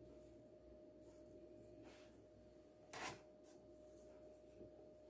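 Near silence: room tone with a faint steady hum, and one brief soft rub about three seconds in as hands handle semolina dough.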